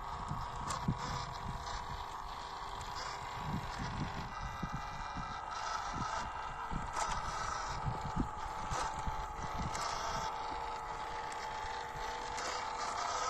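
Electric motors and gear drives of 1/16 scale WPL RC crawler trucks whining steadily while driving, with tyres scraping and knocking over rough ground.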